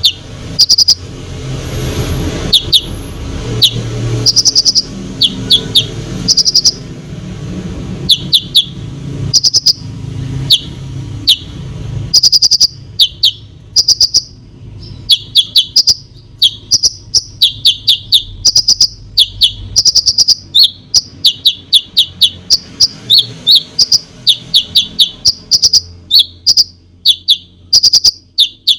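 A konin (kolibri ninja sunbird) singing vigorously: fast strings of short, sharp high chirps and trills, one after another, with a low background rumble through the first half.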